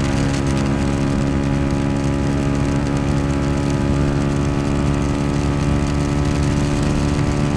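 Yamaha YZF-R125's 125 cc single-cylinder four-stroke engine running at steady revs while cruising, a constant drone with a haze of wind rush over it.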